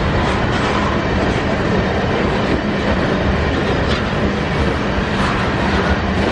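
Loaded iron-ore freight wagons of a very long train rolling steadily past, a continuous heavy rumble of steel wheels on rail with faint clickety-clack.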